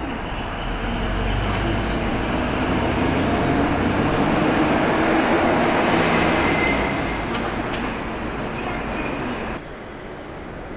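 A train passing close by: a loud rumble of wheels on rail that swells and then fades, with a faint high whine rising and then falling. The sound cuts off abruptly near the end.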